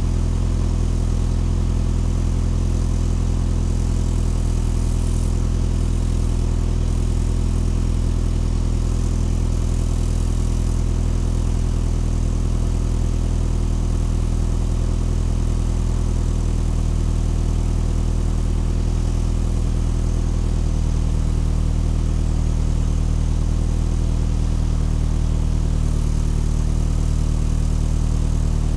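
Vehicle engine idling steadily, with its idle note shifting slightly about two-thirds of the way through.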